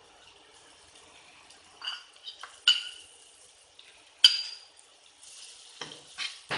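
Metal spatula clanking and scraping against a wok during stir-frying. A few sharp clinks come about two to three seconds in, and one loud clank comes just after four seconds.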